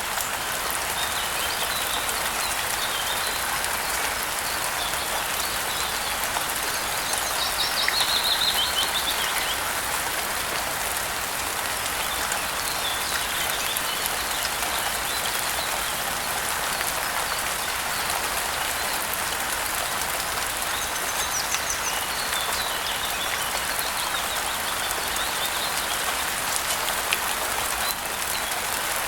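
Steady rain falling, with birds chirping faintly now and then. A louder run of bird chirps comes about eight seconds in.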